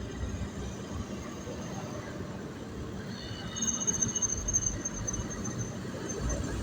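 Road noise of a truck running, a steady low rumble. About three and a half seconds in, a thin high whine joins it.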